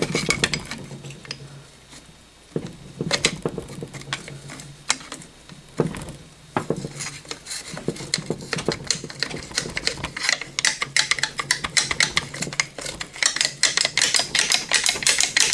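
Metal tools clinking and scraping against the engine as the water pump is pried loose: scattered sharp clicks at first, then a fast, dense run of clinks toward the end.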